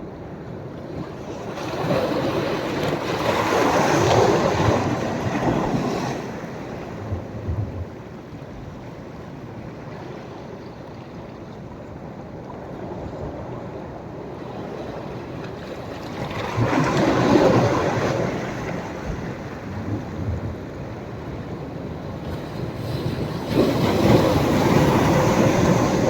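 Sea waves breaking on a sandy beach: three breakers swell up and die away, about two seconds in, past the middle and near the end, over a steady lower wash of surf between them.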